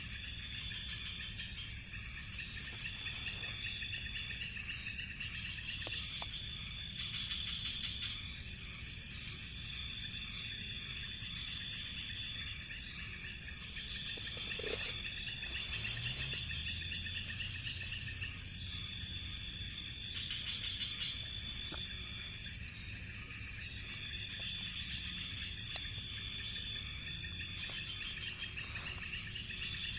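Night forest insects chirping steadily in high, pulsing choruses. About halfway through there is a brief sharp sound, followed by a low drawn-out sound lasting a few seconds.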